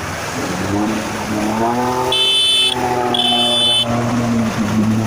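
A motor vehicle's engine running, its pitch rising and then holding steady, with two short, high-pitched horn blasts about two and three seconds in.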